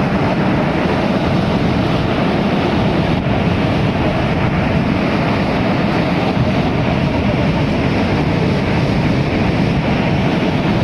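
Large waterfall: a steady, loud roar of falling water with no break or change.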